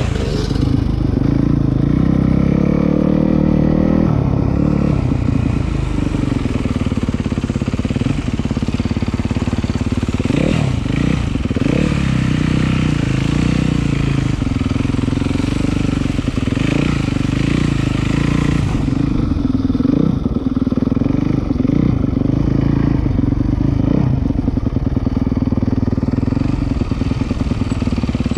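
Dirt bike engine running, its pitch rising and falling again and again as the throttle is opened and closed.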